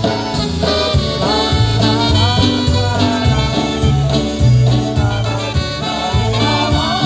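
Live polka band playing an instrumental break between verses of a song, with horns over a steady bass beat.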